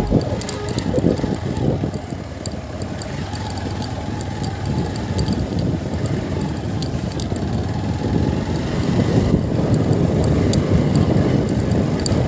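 Motorcycle engine running while being ridden along a road, a steady rumble that grows louder about two-thirds of the way through.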